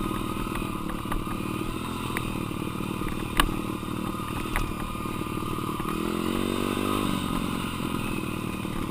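Dirt bike engine running steadily, rising in pitch for about a second around six seconds in and then dropping back, with scattered clatter and one sharp knock a little over three seconds in.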